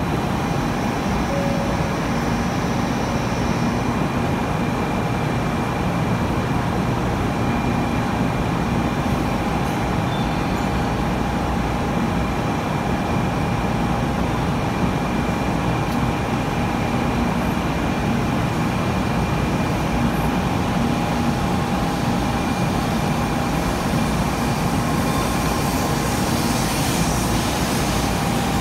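Shinkansen train standing at a platform: a steady hum and hiss of its running equipment with a few constant tones. Near the end there is a little more hiss as the train starts to pull out.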